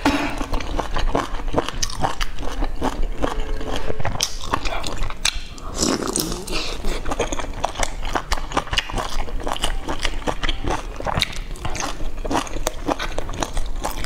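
Close-miked mouth sounds of a person eating boiled dumplings: wet chewing and lip smacking, a steady stream of small clicks.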